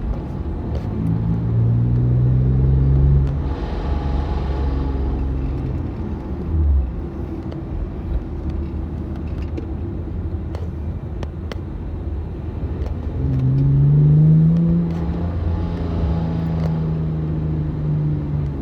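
Vehicle engine running with a steady low hum, revved up twice: the pitch climbs, holds for a couple of seconds and drops back. There are a few short knocks, including a low thump about seven seconds in.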